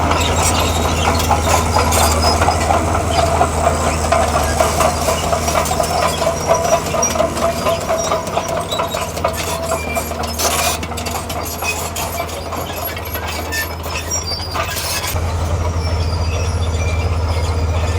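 Tracked heavy earthmoving machine at work: its diesel engine runs with a steady low drone while the steel tracks clank and rattle continuously, with a squealing tone through the first half. The low drone eases off about ten seconds in and comes back strongly near the end.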